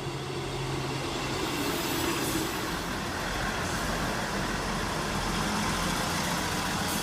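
East Midlands Trains Class 158 diesel multiple unit arriving at the platform, its diesel engines running with a steady low hum, growing louder over the first couple of seconds and then holding steady.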